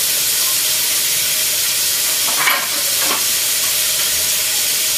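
Cubed squash sautéing with garlic and onion in a hot wok: a steady frying sizzle, with a couple of short clatters about halfway through.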